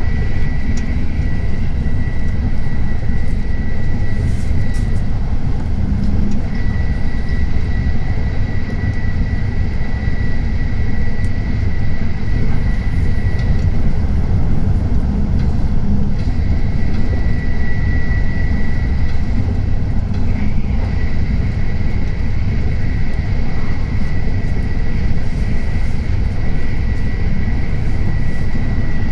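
Steady running noise of a Tokaido Shinkansen train heard from inside the carriage: a loud, even low rumble with a thin high tone running over it.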